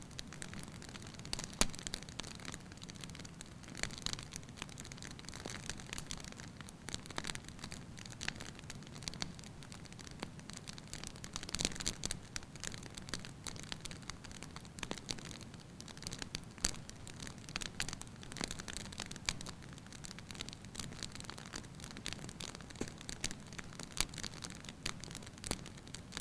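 Wood fire burning in a fireplace: a steady low rush with irregular sharp crackles and pops, a few of them louder.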